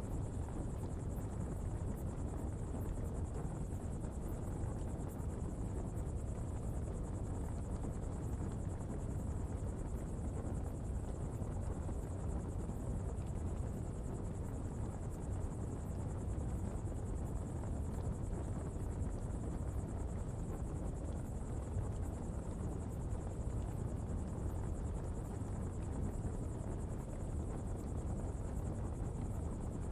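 Coal-fuelled pottery fire burning with a steady low rumble, over a continuous high insect trill.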